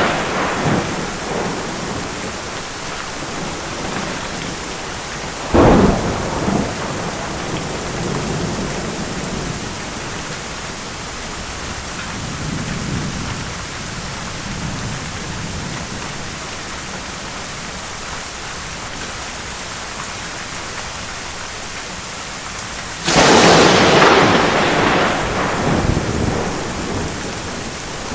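Steady rain with thunder. A sharp thunderclap comes about a fifth of the way in, low rumbles follow, and a loud clap near the end rumbles on for a few seconds before fading.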